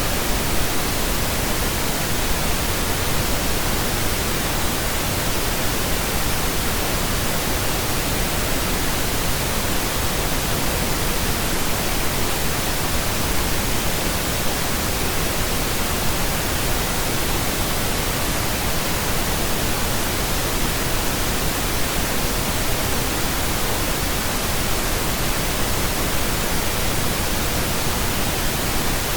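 Steady pink noise: an even, unchanging hiss spread across all pitches, with no tones or rhythm in it.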